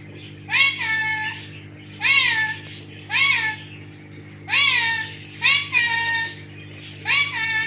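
A parrot giving meow-like calls, about seven in a row at roughly one a second. Each call rises then falls in pitch, and some end with a short held note.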